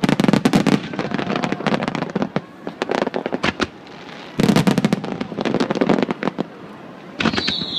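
Fireworks display: rapid volleys of sharp bangs and crackles in two dense runs with a short lull between them. A high whistling tone starts near the end.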